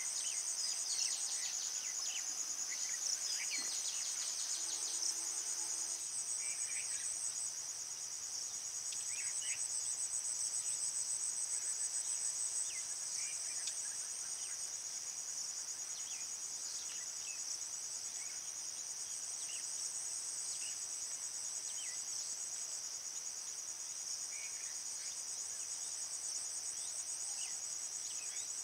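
Steady high-pitched trilling chorus of many insects, with scattered short faint chirps over it.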